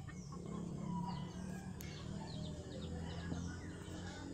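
Faint bird chirps, short high calls scattered every second or so, over a low steady hum.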